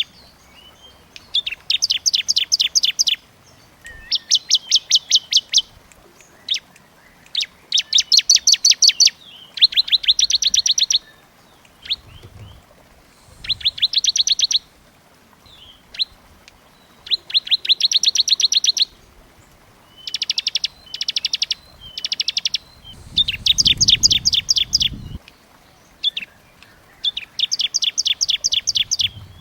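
Small songbirds chattering in rapid, dense trills of quickly repeated high notes. The bursts last about a second each and follow one another every couple of seconds. This is a 'burcil' (small-bird) masteran recording, made for kept songbirds to copy.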